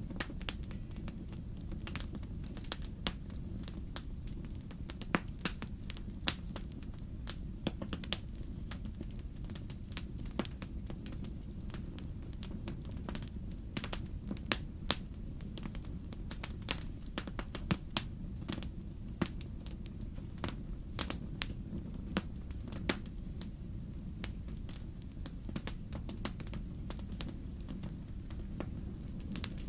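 Wood fire crackling in a fireplace: a steady low rumble of the flames with irregular sharp pops and snaps of burning logs.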